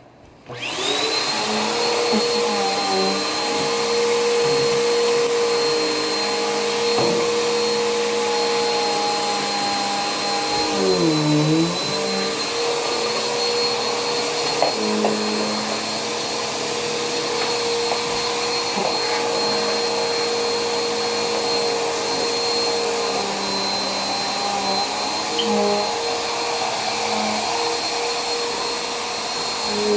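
Vacuum cleaner switched on, its motor spinning up to a steady whine within the first second and then running steadily. About eleven seconds in, its pitch dips briefly and recovers.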